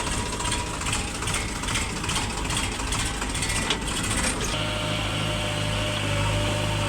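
A diesel engine running, with a fast, even clatter that gives way about four and a half seconds in to a steadier low hum.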